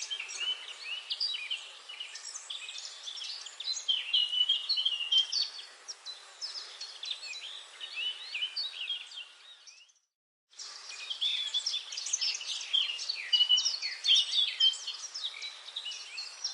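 Dense chorus of many songbirds chirping and singing over one another, with a soft steady hiss beneath. The sound drops out completely for about half a second, about ten seconds in.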